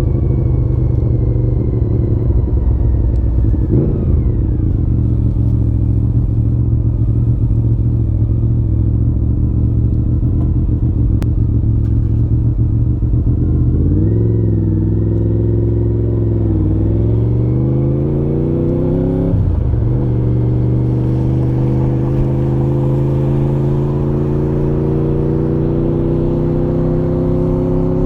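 Honda VFR750F RC36's V4 engine through a modified stock muffler, running steadily under way. About four seconds in its pitch drops sharply; from about fourteen seconds it rises and falls, shifts again near twenty seconds, then climbs slowly to the end.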